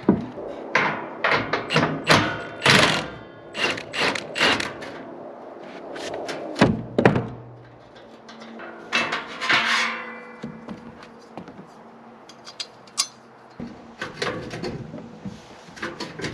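A run of irregular knocks and clanks from tools and metal exhaust parts as a truck's muffler is worked loose, with one heavier clank with some ringing about a third of the way in and a scraping rattle a little past the middle.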